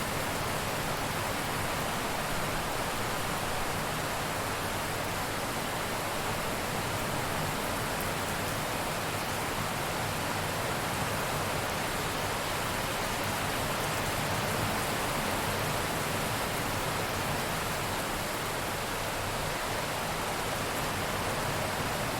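Rain falling steadily, an even hiss with no thunderclaps.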